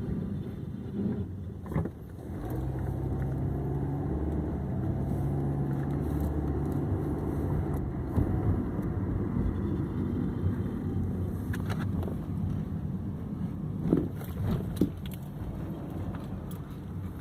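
2006 Hyundai Accent on the move, its running and road noise carrying a grinding from the driver-side wheel, with a few brief knocks in the second half.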